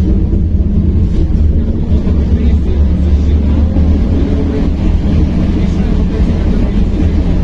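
Steady low rumble of a Belkommunmash BKM-60102 on the move, heard from inside the passenger cabin, with faint passenger voices under it.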